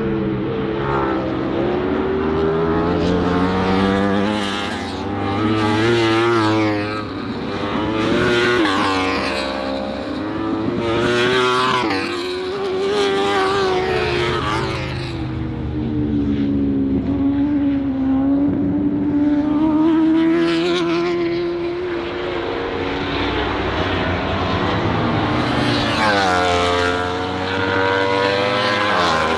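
Superbike race motorcycles at racing speed, engines revving hard with the pitch climbing through the gears and dropping on the shifts and braking, several bikes swelling loud as they pass close.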